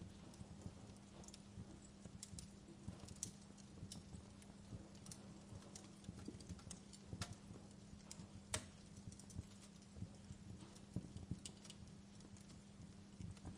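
Wood fire crackling: irregular sharp pops and snaps over a steady low hum, with two louder snaps about seven and eight and a half seconds in.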